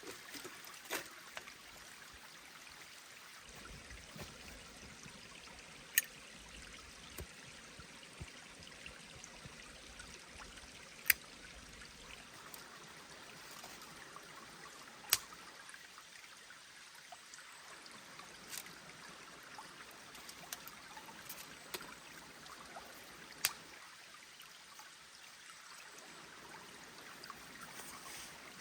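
A forest stream running steadily, with a few sharp clicks now and then over it.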